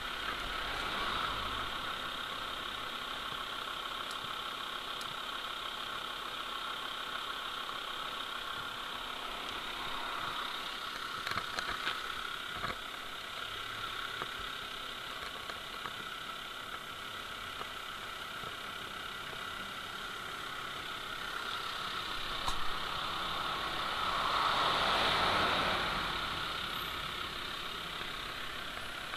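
Mercedes-Benz SUV's engine idling steadily close by, with a louder swell of noise that rises and fades a few seconds before the end.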